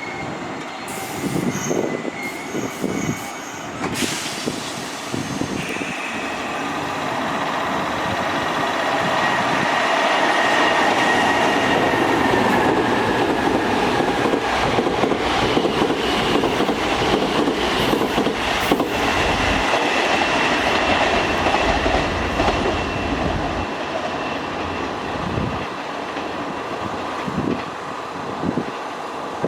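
Kintetsu Minami-Osaka Line electric train running along the platform track, building over about ten seconds, loudest for about ten seconds, then easing off. A steady high tone runs through it and dips slightly in pitch midway.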